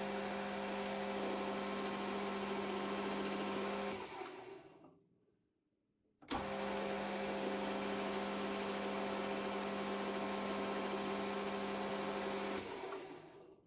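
Metal lathe running with a steady motor hum and the hiss of the cut while a relief is turned on a steel shaft. It winds down about four seconds in, comes back in abruptly after a dead-silent gap, and winds down again near the end.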